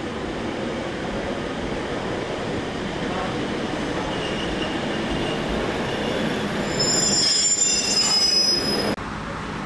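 Class 142 Pacer diesel railbus running into the platform, its rumble growing louder as it approaches. From about seven seconds in a high-pitched metallic squeal rides on top, and the sound cuts off suddenly near the end.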